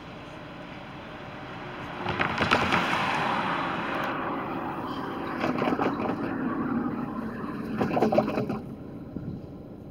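Diesel freight locomotives leading a stack train pass close under power: engine noise and rough clatter from the wheels, getting loud about two seconds in and easing near the end.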